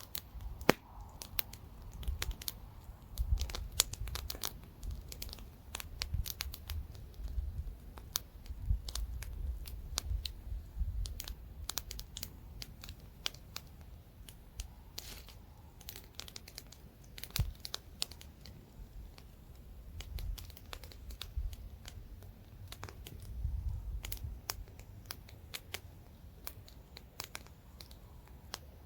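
Campfire burning with irregular sharp crackles and pops from the wood, over a low rumble of light wind on the microphone.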